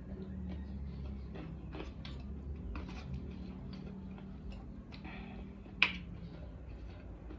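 Close-up eating sounds: irregular small clicks and smacks of chewing, with one sharper click about six seconds in, over a steady low hum.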